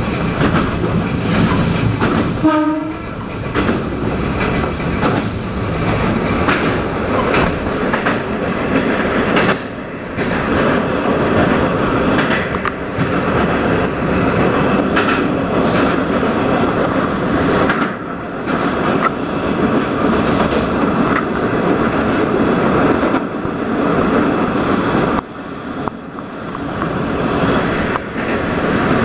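Electric train running through the Kanmon rail tunnel, heard from inside the carriage: a steady loud rumble of wheels and running gear with occasional rail clatter. A short pitched tone sounds about two and a half seconds in.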